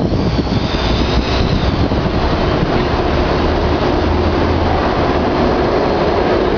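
Locomotive-hauled passenger train running past on the line, a loud, steady noise of the cars on the track.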